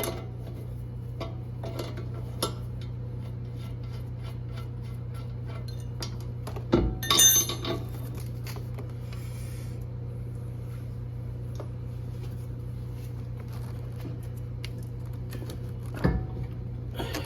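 Metal tools and car parts clinking and clanking as they are handled, with a loud cluster of clanks about seven seconds in and another near the end. A steady low hum runs underneath.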